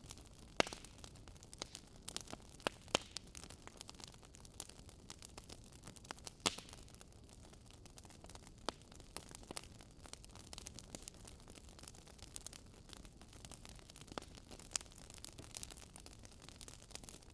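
Wood campfire crackling: irregular sharp pops and snaps over a low steady hiss, with a few louder pops, the loudest about half a second in and again about six seconds in.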